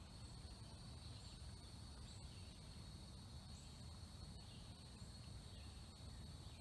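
Near-silent riverside ambience: a faint steady high-pitched insect trill, a few faint bird chirps, and a low rumble.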